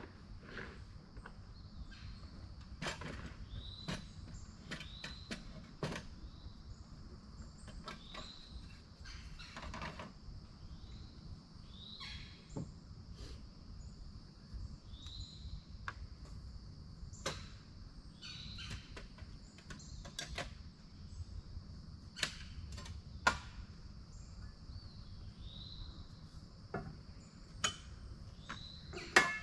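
Campfire crackling, with irregular sharp pops and snaps about once a second, over a steady high-pitched chorus of crickets and other night insects.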